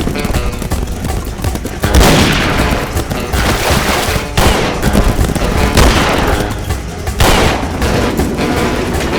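Film soundtrack of a shootout: repeated gunfire, several loud shots among a continuous volley, over background music.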